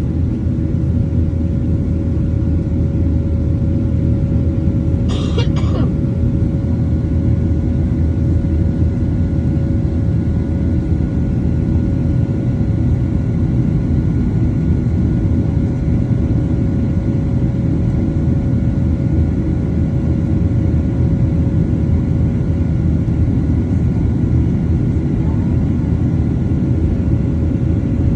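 Steady cabin rumble of a Boeing 737-700 in flight from its CFM56-7B turbofan engines and airflow, with a few steady hum tones above it. A brief higher sound cuts in about five seconds in.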